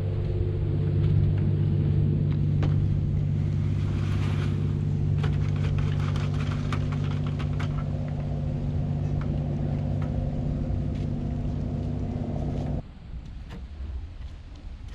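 Cement mixer motor running with a steady drone. A brief hiss and scattered light clicks sound over it, and the motor shuts off suddenly near the end.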